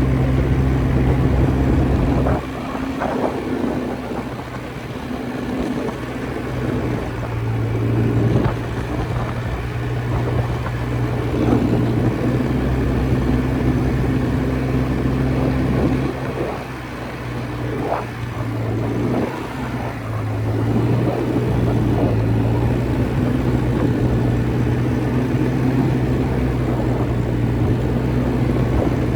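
Quad bike engine running as it is ridden, with a steady low hum. The engine eases off about two seconds in and again about halfway through, then picks back up.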